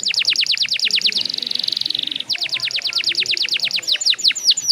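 Domestic canary singing in fast tours: a rapid string of downward-sweeping whistled notes, about a dozen a second, then a short buzzing roll. A second string of sweeps follows and slows toward the end.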